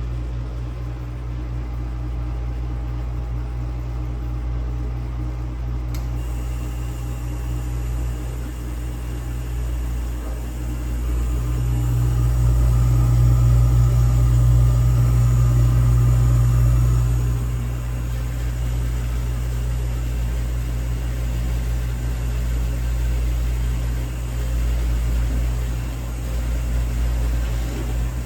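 Vintage dishwasher's pump motor running through a wash cycle with a steady low hum, which swells louder for several seconds about halfway through and then settles back. The owner suspects the pump is restricted, as the water no longer hits the tub at full force.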